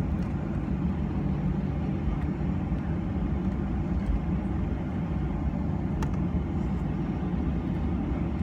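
Steady low cabin rumble inside a Boeing 737-900, with a single click about six seconds in.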